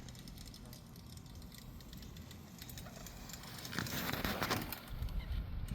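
Mini bike rolling down a hill, its tyres crackling over rough ground with a clatter of small rattles, loudest about four seconds in.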